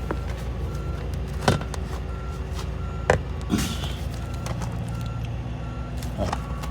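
Sharp metallic knocks and a brief scrape from a socket wrench being worked on a tight oil drain plug, heard twice. Under them run a steady low hum and a faint short beep repeating about every 0.7 s.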